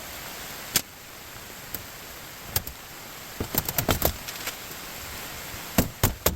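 Irregular sharp knocks and clicks from scrap metal and parts being handled, single ones spaced out and then a quick run of them in the middle, over a steady hiss.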